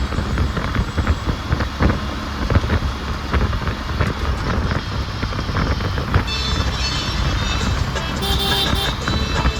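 Road vehicle running, with a steady low rumble and frequent short knocks and rattles.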